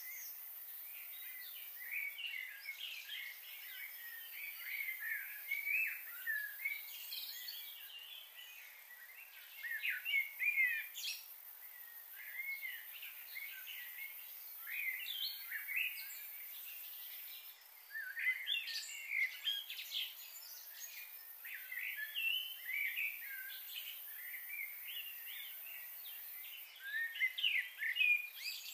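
Birds chirping and calling almost without pause in short, quick phrases, over a steady high hiss.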